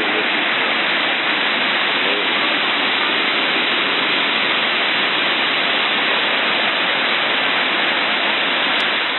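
Floodwater from a burst dam rushing past in a torrent: a steady, loud wash of water noise.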